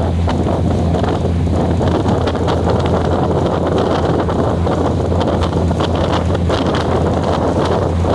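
A moving passenger train heard from on board: steady running noise with a constant low hum and faint clicks, and wind buffeting the microphone.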